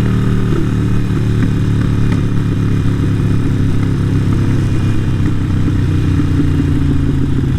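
Harley-Davidson Sportster 883 Iron's air-cooled V-twin running through a Vance & Hines exhaust at a steady engine speed.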